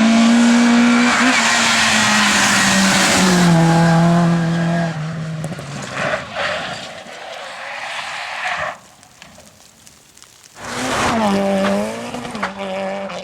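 Rally car engine at full throttle close by, its pitch stepping down partway through as it shifts or lifts, then fading away. After a brief quieter lull, a rally car engine comes in loud again, revving up and down.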